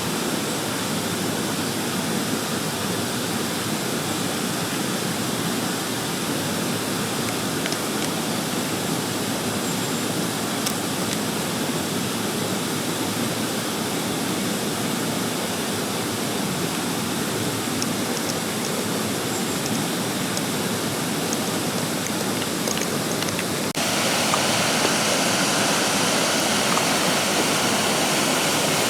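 Mountain stream rushing steadily over rocks. Near the end the water suddenly becomes louder and brighter.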